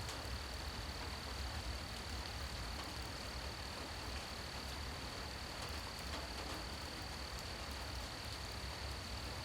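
Steady rain at night, an even hiss with scattered small drip ticks, under a continuous high-pitched insect trill.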